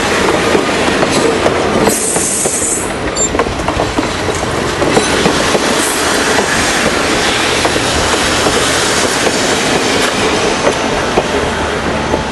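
Dinner train cars rolling on the rails, wheels clicking over rail joints in a loud steady rumble, with a brief high-pitched squeal about two seconds in.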